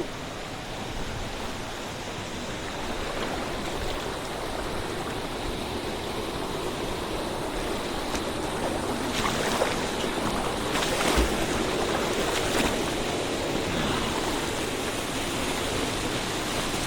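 Waterfall pouring into a rock pool: a steady rush of water that grows slightly louder, with a few brief sharper sounds about nine to thirteen seconds in.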